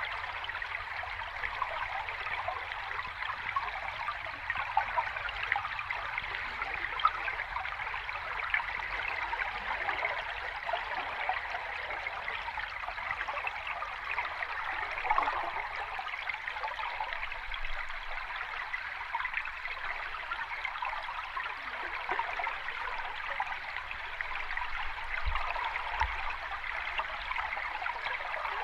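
Steady rushing, trickling water: an even, unbroken wash with a fine bubbling texture and no rise and fall of waves.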